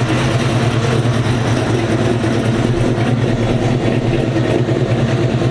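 A vehicle engine idling steadily and loudly, with a low, even hum.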